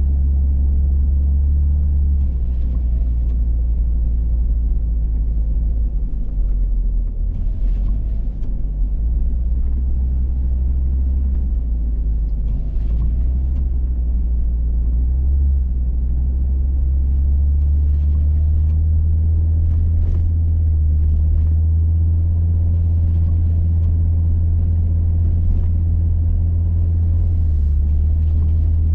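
Hummer H3 driving steadily, a continuous low engine and road rumble with a few faint ticks over it.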